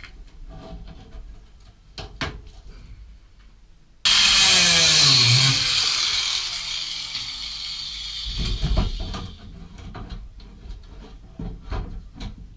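A power tool cuts in suddenly about four seconds in, loud and hissy with a falling pitch as it bites, then fades out over several seconds. Light clicks and knocks of handling come before and after.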